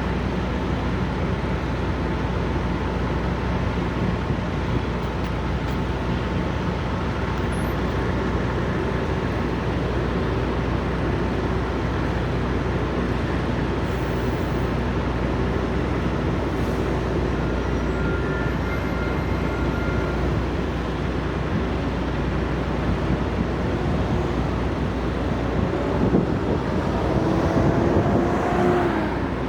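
Steady low hum of idling truck engines. Near the end another engine's pitch rises as a vehicle speeds up.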